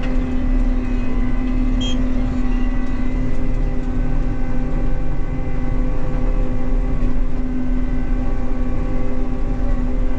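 Self-propelled swather running steadily while swathing oats: an even machine hum with a constant tone that holds unchanged throughout.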